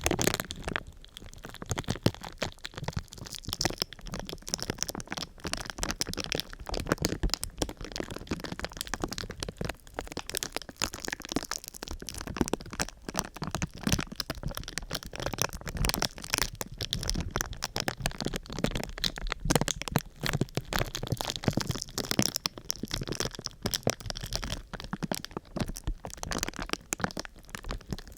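Close-miked crinkling and crackling of a thin sheet being crumpled and handled: a dense, unbroken run of sharp crackles.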